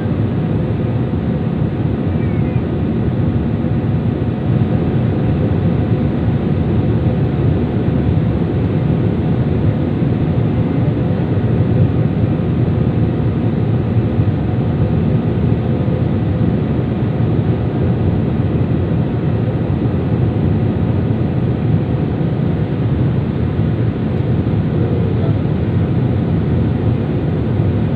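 Airliner cabin noise in flight: a steady low drone of engines and rushing air, with a few faint steady hums above it.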